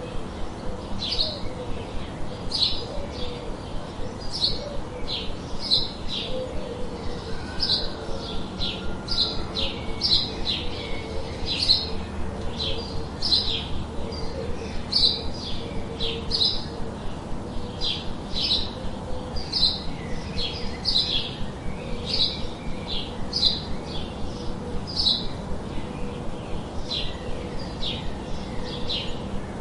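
Small birds chirping: a steady run of short, high chirps, one or two a second.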